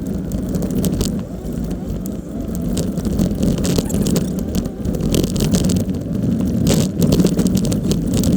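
Jeep engine running steadily as it drives over sand, with frequent short knocks and rattles from the vehicle over the bumps.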